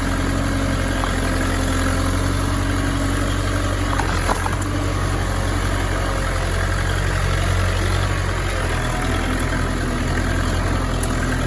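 Belarus tractor's diesel engine running steadily at idle, with a brief knock about four seconds in.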